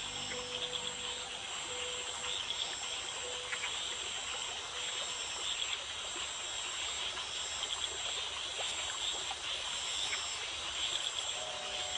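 Rainforest night chorus of calling frogs and insects: a dense, steady trilling with short high notes repeating over and over.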